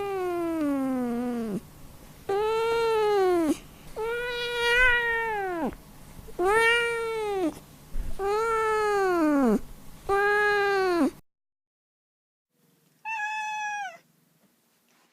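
Domestic cat meowing: six drawn-out meows about a second long, most rising then falling in pitch, then after a short silence a single shorter, higher meow.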